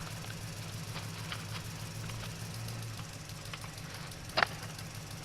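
A steady low mechanical hum, like a running engine, with scattered light clicks and one louder click about four seconds in.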